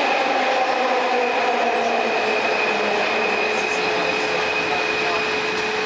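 Light-rail metro train running, a steady rushing rumble with a steady electric whine over it.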